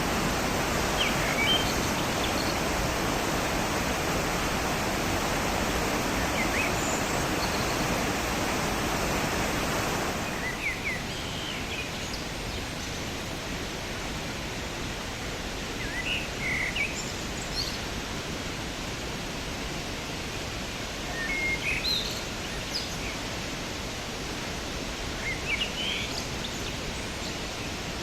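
Düden Waterfall's water rushing in a steady roar that drops to a lower level about ten seconds in, with birds chirping in short, scattered calls over it.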